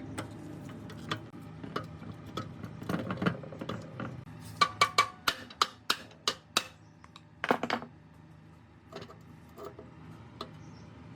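Hand-tool work on metal parts: scattered sharp clinks and knocks, with a run of about seven evenly spaced strikes, roughly three a second, in the middle and a louder cluster of knocks shortly after.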